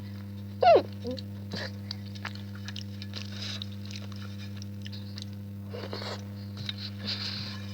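A person chewing and smacking their mouth while eating, with scattered small wet clicks. A brief, loud, falling slurp or mouth sound comes a little under a second in. A steady low electrical hum runs underneath.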